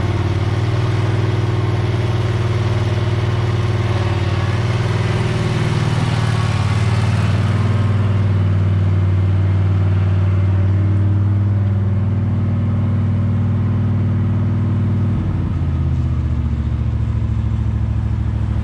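Husqvarna V554 stand-on zero-turn mower's engine running steadily under load. A higher hiss over the engine fades about halfway through, and the engine note shifts lower near the end.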